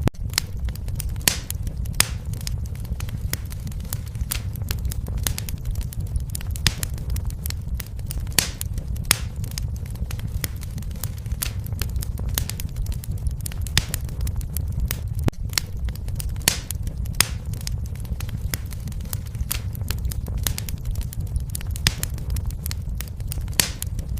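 Wood fire burning in a fireplace: a steady low rumble of flames with sharp, irregular crackles and pops of burning logs.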